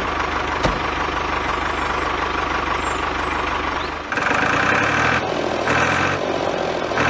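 An engine runs steadily with a fast low throb, with a single click a little under a second in. About four seconds in it gives way to pulsing music in three short bursts.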